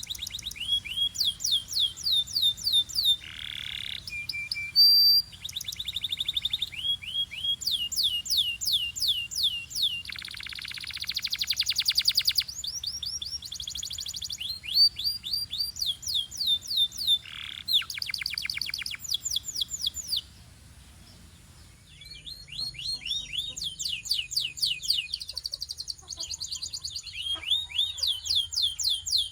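Belgian canary singing: fast trills of repeated down-slurred whistled notes mixed with buzzy rolls, broken by a pause of about two seconds roughly two-thirds of the way through.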